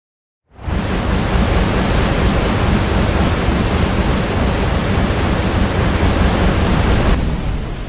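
Sea waves breaking, a steady loud rush of surf with a heavy low rumble. It starts suddenly about half a second in, and about seven seconds in the hiss in the upper range drops away and it gets quieter.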